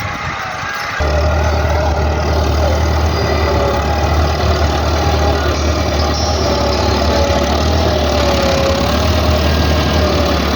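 Tractor loader's diesel engine running steadily, stepping up sharply in loudness about a second in, with a strong low hum and a thin whine that wavers up and down in pitch.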